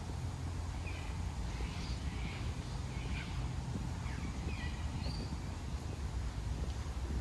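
Several short bird chirps and calls for a few seconds, over a steady low rumble.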